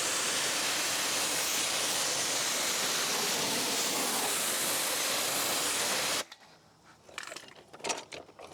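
Kränzle electric pressure washer spraying water onto a trailer wheel and tire: a steady hiss that cuts off suddenly about six seconds in, followed by a few faint clicks and knocks.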